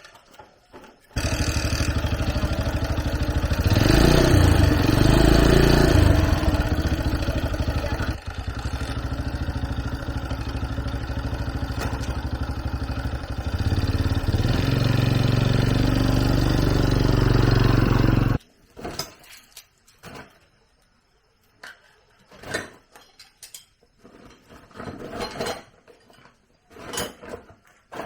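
A small engine starts about a second in, revs up briefly, runs steadily with a faster stretch, then cuts off suddenly. Scattered light knocks and clicks follow.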